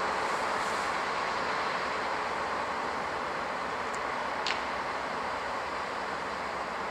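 A train moving through the station: a steady rumble that slowly fades, with a brief high squeal about four and a half seconds in.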